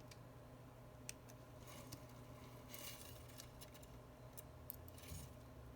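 Faint clicks and short scrapes of a precision screwdriver and tiny screws on a phone's metal cover plate, as the screws are set in and started by hand.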